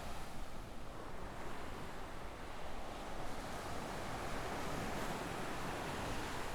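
Ocean waves washing onto a sandy beach: a steady hiss of surf, with a low wind rumble on the microphone.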